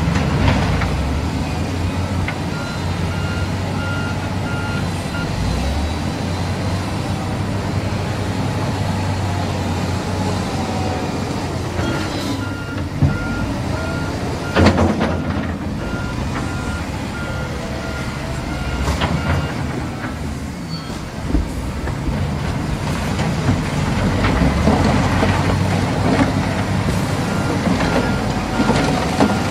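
Heavy earth-moving machinery engine running steadily under load, with a reversing alarm beeping in three spells of evenly spaced beeps. A few sharp knocks come about 13 and 15 seconds in.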